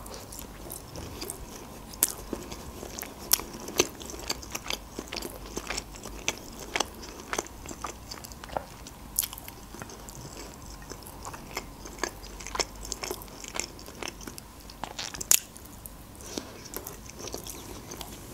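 Close-miked eating: biting into and chewing a piece of chicken in sweet-and-sour sauce, with many sharp, irregular clicks and crackles from the mouth.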